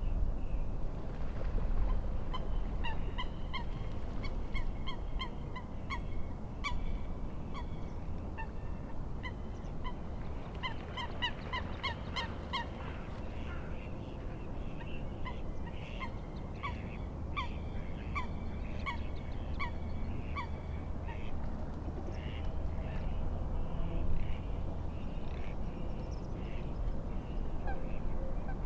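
Water birds calling over and over in short honking calls, several birds overlapping. A steady low rumble of wind and lapping waves runs beneath.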